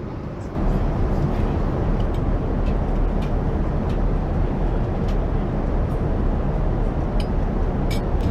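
Steady rushing noise of a jet airliner heard from inside the cabin, coming in suddenly about half a second in and holding even, with a few faint clicks.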